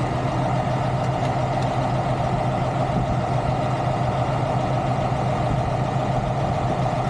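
Heavy diesel truck engine idling steadily, a constant low hum with a steady higher drone above it.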